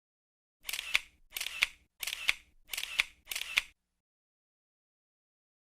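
Camera shutter sound effect, clicking five times in quick even succession, about two and a half clicks every second and a half, over otherwise dead silence.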